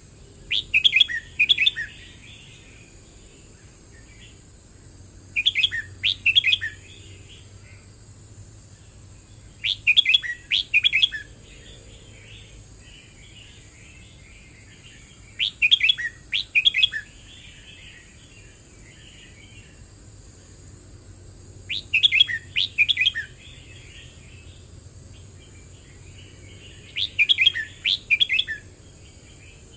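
Red-whiskered bulbul singing: six short song phrases, each about a second long, repeated roughly every five seconds. Quieter twittering between them, over a steady high hiss.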